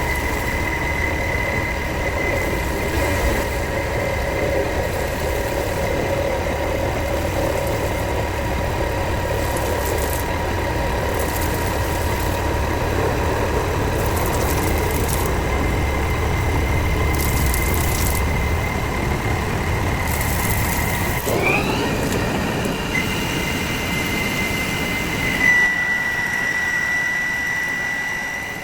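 Metalworking machinery running in a workshop: a steady low rumble under a high, steady whine. About 21 seconds in the pitch sweeps up quickly, and then the rumble drops away, leaving the high whine.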